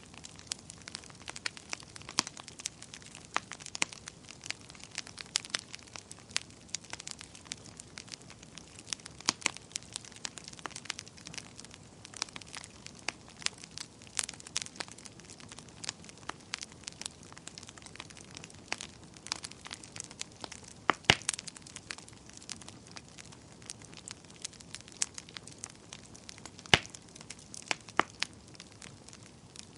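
Campfire burning and crackling: a steady low hiss of flames with frequent irregular sharp pops and snaps of burning wood, the loudest pops about 21 and 27 seconds in.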